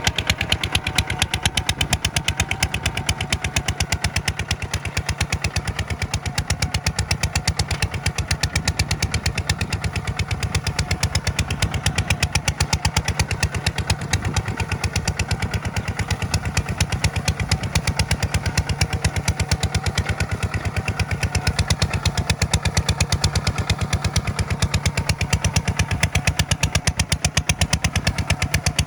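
Tractor engine running steadily with rapid, even exhaust beats and no change in speed.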